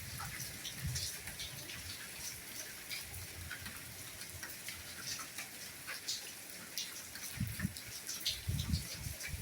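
Steady light rainfall with individual drops ticking and pattering, plus occasional dull low thuds of heavier drops landing near the microphone.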